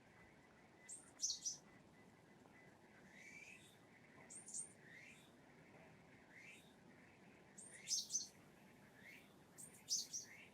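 Eurasian tree sparrow chirping: short high chirps in little clusters every few seconds, the loudest about a second in and near the end, with fainter rising calls in between.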